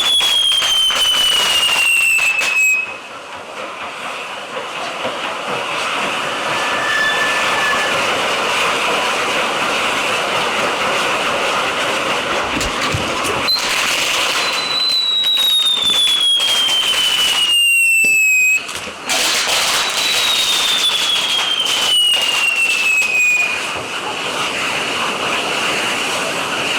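Handmade set-piece fireworks burning with a steady hissing rush of sparks. Three long falling whistles from whistling fireworks cut through it, each about three seconds: one ending near the start, two more in the second half. A few sharp cracks are scattered through.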